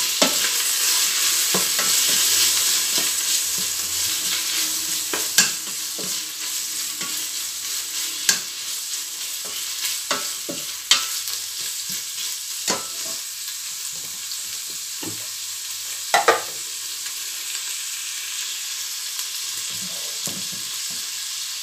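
Shredded chicken with onion and garlic sizzling in hot olive oil in a stainless steel pot as it is stirred with a plastic spoon, with a few sharp knocks of the spoon against the pot. The sizzle is strongest at first and eases off gradually.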